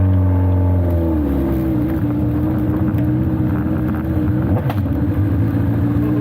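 Speedway sidecar engine running hard and steadily, its note settling slightly lower about a second in and then holding.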